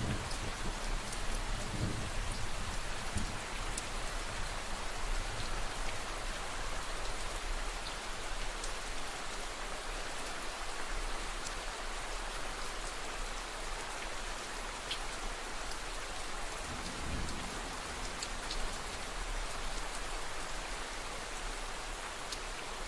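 Steady rain falling on a surface: a dense, even hiss with scattered individual drop ticks. A low rumble swells briefly near the start and again about two-thirds of the way through.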